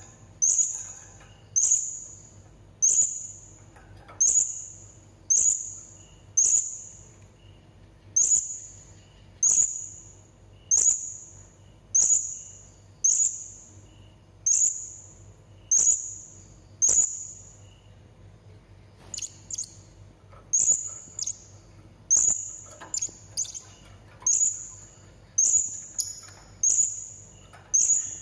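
Blue-crowned hanging parrot (serindit) calling: short, sharp, high-pitched notes that trail off, repeated steadily about once a second. Near the middle the series breaks off for a couple of seconds of quicker, fainter chirps, then the regular calls resume.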